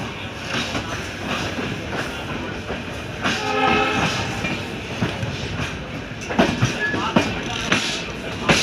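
LHB passenger coaches rolling past on the adjacent track, with wheels clattering over rail joints in the second half. About three seconds in, a train horn sounds for about a second.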